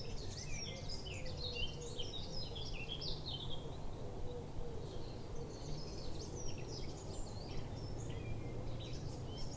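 Songbirds singing outdoors: quick, jumping high chirps and trills in bursts, a long run at the start, another in the middle and more near the end, over a low steady background rumble.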